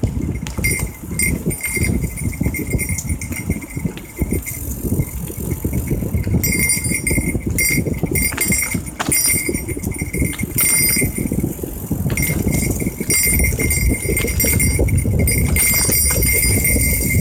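Mountain bike ridden over a rough, stony trail: tyres rumbling and the bike rattling and clattering with many sharp knocks. A thin high-pitched tone comes and goes several times.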